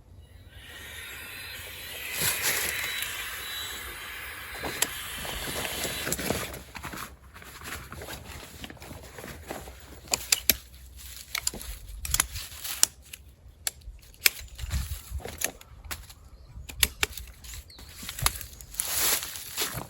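Camping gear being carried in and handled on the forest floor: a few seconds of bag rustling, then footsteps and a run of sharp knocks and clicks.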